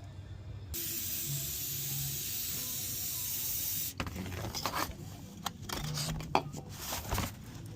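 A steady hiss for about three seconds that starts and stops abruptly, then a run of sharp clicks and knocks.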